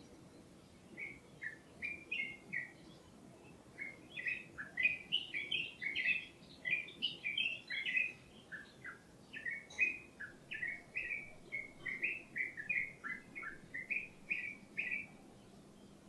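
A songbird singing a long run of quick, short chirping notes. It starts about a second in, breaks off briefly, then sings on without a pause until near the end.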